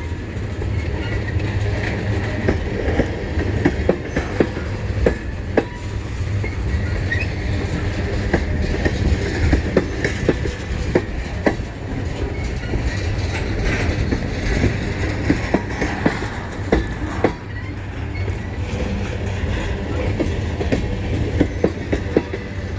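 CN mixed freight train rolling past slowly, a steady low rumble of cars with irregular clicks and knocks of wheels over the rail joints.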